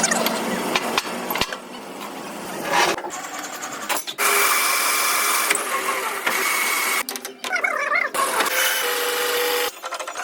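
Workshop machine and tool noise in a string of short clips that cut abruptly every second or few: stretches of harsh hissing noise alternate with steady machine whines.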